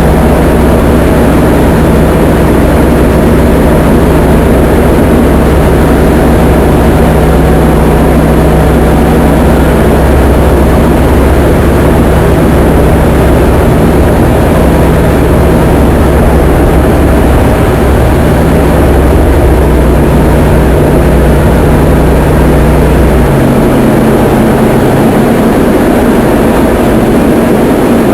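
Diamond DA20 light aircraft's four-cylinder piston engine and propeller droning steadily. The engine note drops in pitch in two small steps about two-thirds of the way through, as power is reduced.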